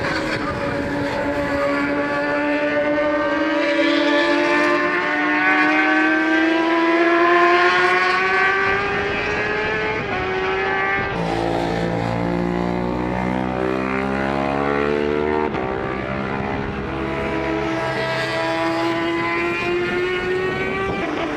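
Racing superbike engines at high revs going past, their pitch sliding as they pass. About eleven seconds in, a deeper engine note with lower harmonics comes in for several seconds.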